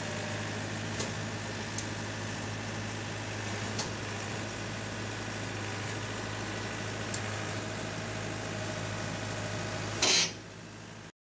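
Engine idling steadily, with a few faint clicks over it. About ten seconds in, a brief loud burst of noise, after which the sound drops lower and then cuts off.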